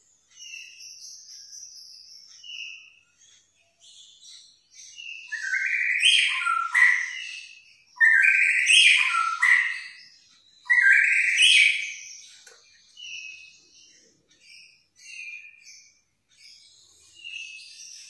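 A songbird singing varied whistled phrases: short, quieter phrases at first, then three loud, longer bursts of song in the middle, then short quieter phrases again.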